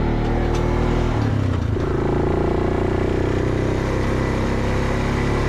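ATV engine running as it drives along, with the engine note changing about a second and a half in.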